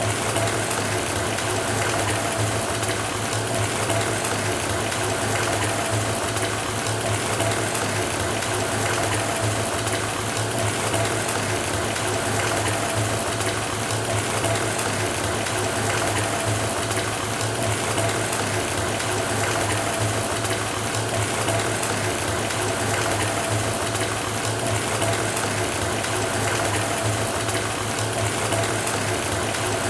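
A bathtub filling from the tap: a steady rush of running water, with a low hum and a faint steady tone beneath it.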